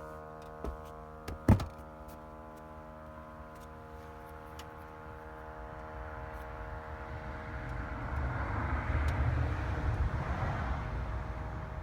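Steady, many-toned buzz from a 2012 Volvo S60 after its engine is switched off, which the owner is unsure is normal. A couple of knocks and a sharp click come about a second and a half in, and in the second half a rushing noise swells and fades.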